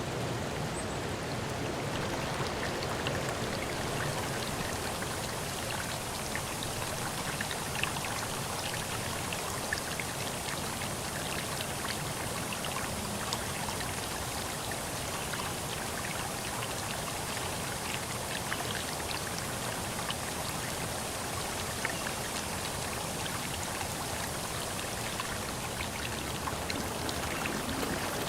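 Water sounds: a steady, even rushing hiss with many small ticks scattered through it, like drops or trickles.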